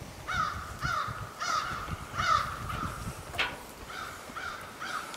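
A bird calling repeatedly outdoors: four calls about half a second apart, a short pause, then three more. About two-thirds of the way through there is a single sharp click.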